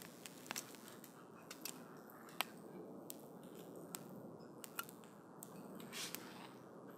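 Wood campfire burning, with a soft steady rush of flame and irregular sharp crackles and pops from the burning wood, the sharpest about two and a half seconds in and a short hiss just before six seconds.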